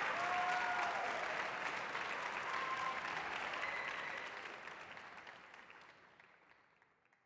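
Audience applause, many hands clapping, fading steadily away to silence over about six seconds.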